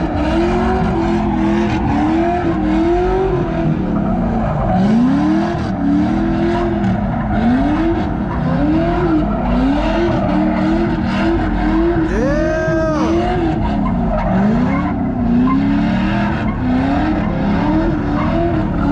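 A car engine revving up and falling back again and again, roughly once a second, while its spinning tyres skid on the pavement as it does donuts. A brief higher-pitched rise and fall cuts through about twelve seconds in.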